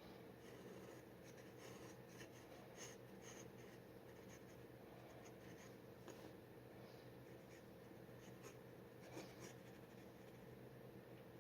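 Faint scratching of a steel G-nib dip pen on paper in short, irregular strokes, over a low steady hum.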